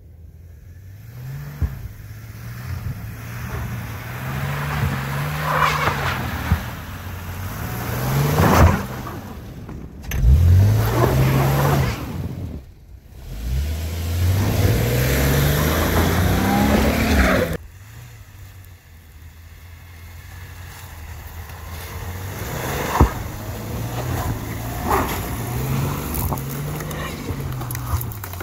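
Subaru Outback's engine revving up and dropping back again and again as it pushes into deep snow and slush, its tyres churning. A long, loud rev cuts off suddenly about two-thirds of the way through, and quieter revving follows.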